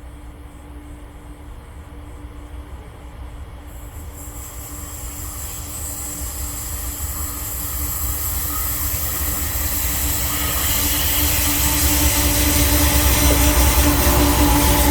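Diesel freight train approaching and growing steadily louder: a deep locomotive rumble with a steady hum, joined about four seconds in by a thin high ringing and hiss from wheels on the rails.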